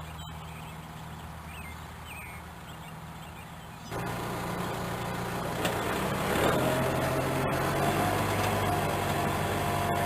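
Farm tractor engine running steadily under load while pulling a tree planter. About four seconds in it becomes abruptly louder, and a steady whine joins it a couple of seconds later.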